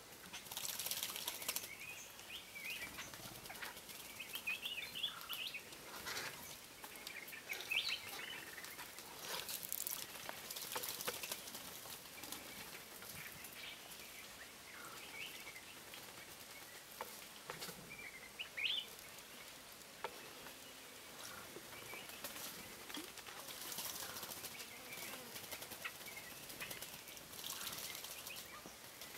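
Small birds bathing, with several bursts of splashing and wing-fluttering and short chirping calls in between.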